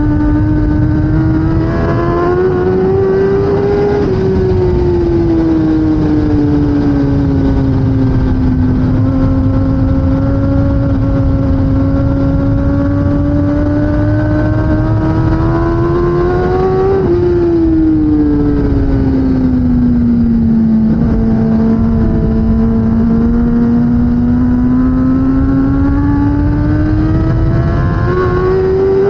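Kawasaki ZX10R superbike's inline-four engine running hard, its pitch climbing and falling in long sweeps. It peaks about 4 and 17 seconds in and again near the end, and drops away between them. A steady low rumble runs underneath.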